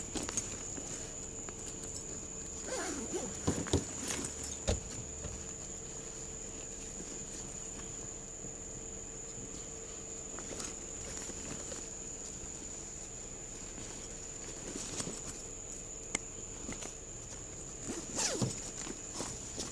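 Scattered rustling, clicks and footsteps of someone handling things and moving about, in two clusters a few seconds in and near the end, over a steady high-pitched whine.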